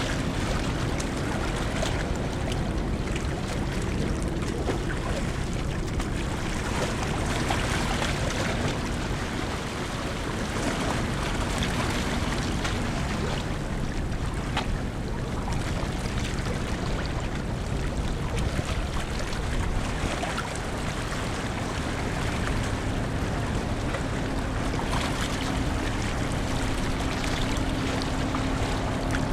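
Hankyu Ferry's Ferry Suo coming into port: a steady rush of water with a low rumble and a faint steady hum from the ship that comes and goes.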